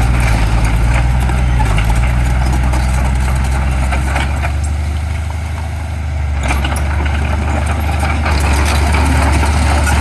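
Heavy diesel engine of earthmoving machinery running steadily at low revs, with scattered clanks and scraping over it.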